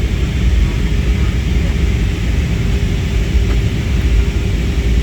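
Cebu Pacific airliner's engines and airflow making a steady low rumble with a faint constant hum, unchanged throughout.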